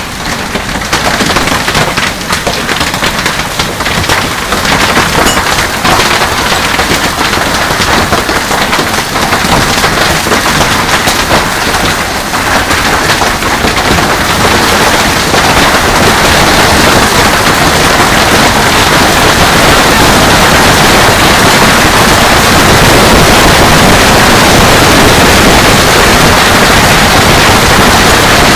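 Hail falling hard: a dense rattle of many small hailstone impacts over a rushing hiss. It thickens into a steadier, slightly louder downpour about halfway through.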